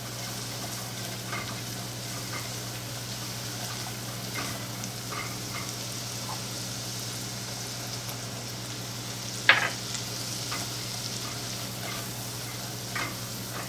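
Butter, green onions and flour sizzling in a saucepan over medium-high heat while being stirred, the flour cooking in the butter as the start of a roux. Faint taps of the utensil against the pan, with one louder tap about two-thirds of the way through.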